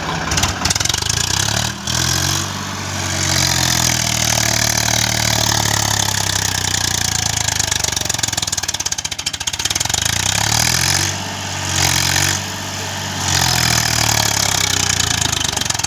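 Swaraj tractor's diesel engine running hard under load, its note rising and falling as the throttle is worked to pull free of sand. The engine eases off briefly about two seconds in and twice more near the end before picking up again.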